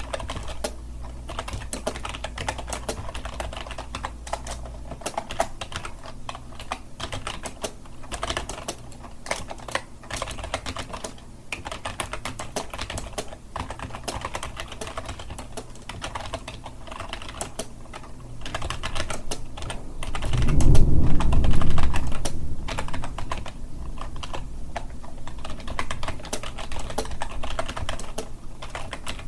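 Computer keyboard typing: a steady, fast run of irregular key clicks. About two-thirds of the way through, a low rumble lasting a couple of seconds rises under the clicks and is the loudest sound.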